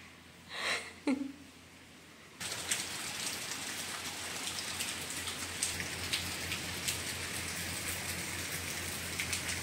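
Steady rain falling, a dense patter of drops with many small drip clicks, starting suddenly about two seconds in. Before it there are only a couple of short, faint sounds.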